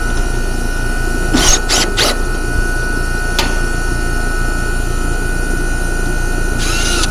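Steady machine hum with a thin high whine running throughout, broken by three short rasping bursts about a second and a half in, a sharp click a little later and one more short burst near the end.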